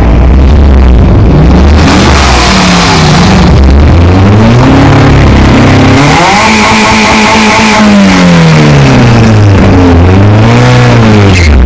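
Car engine revved repeatedly, its pitch climbing, holding briefly and dropping back several times, loud and close.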